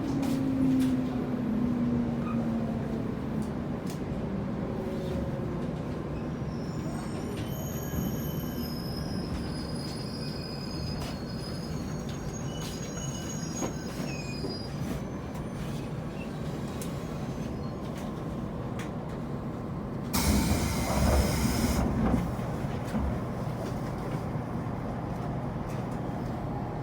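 JR Kyushu 811 series electric train heard from inside the car: the traction motor's whine falls in pitch in the first couple of seconds over a steady running rumble. Short high wheel squeals come in the middle, and a loud rushing burst lasts about two seconds near the end.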